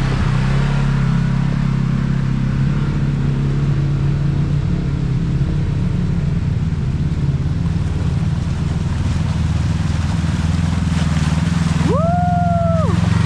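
Yamaha RMAX side-by-side engine running at a steady cruise on a dirt forest road, with tyre and wind noise. Near the end a short high tone of about a second sounds, sliding up at its start and down at its end.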